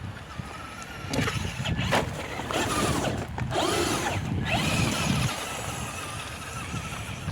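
Traxxas Slash 2WD RC truck's electric motor whining up and down in several quick throttle bursts from about one to five seconds in, then settling to a steadier, quieter whine, over a steady hiss of rain.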